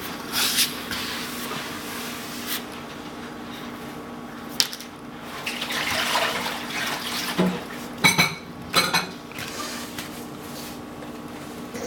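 Refrigerator magnets clicking and clattering against a fridge door and against each other: a scatter of sharp clacks, with a quick cluster of them about eight seconds in.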